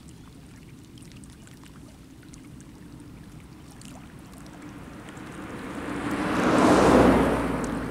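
Faint outdoor background with a few light ticks, then a rushing noise that swells about five seconds in, peaks near the end and begins to fade.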